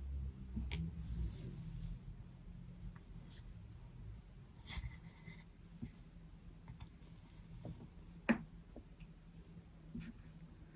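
Faint rubbing and scraping with scattered light clicks, as of things being handled on a worktop, and one sharper click about eight seconds in. A low hum fades out in the first two seconds.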